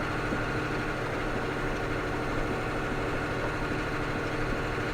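Ford CF7000's 6.6-litre Brazil diesel engine running steadily at an even speed, with no revving.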